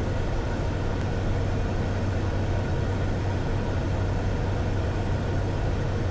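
Steady drone of a Cessna Caravan's single turboprop engine and propeller in flight, heard inside the cockpit, with a strong low hum and no change in pitch or level.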